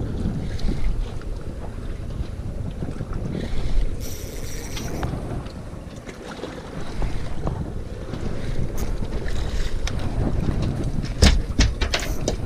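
Wind buffeting the microphone over the noise of water and the boat, with a few sharp knocks late on.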